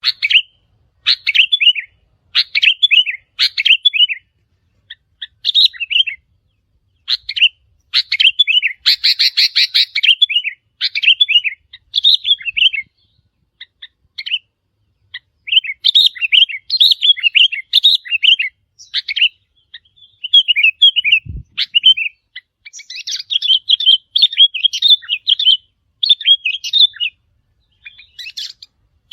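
Sooty-headed bulbul song: short, bubbly whistled phrases repeated in quick succession, with a few gaps. One brief low thump about two-thirds of the way through.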